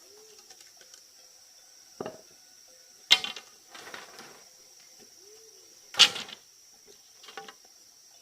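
Four or five sharp knocks, the loudest two about three seconds apart, with a short rustle after the first loud one, over a steady insect drone.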